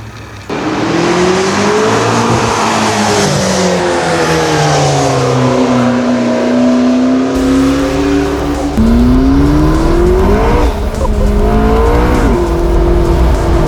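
McLaren 650S's 3.8-litre twin-turbo V8 being driven hard. The engine comes in suddenly about half a second in, its note climbing and falling away, then holding steady, then climbing twice more near the end with a sharp drop after each rise.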